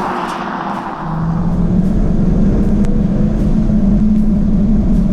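2024 Jaguar F-Type's supercharged 5.0-litre V8 engine and exhaust: the loud, full-throttle note dies away as the driver lifts off, then settles about a second in into a steady, even drone at cruising revs.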